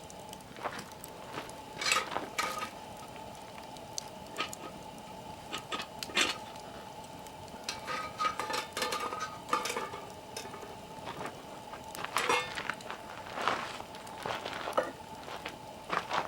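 Wood campfire crackling and popping in irregular sharp snaps, over a steady low hiss, with a few light clinks.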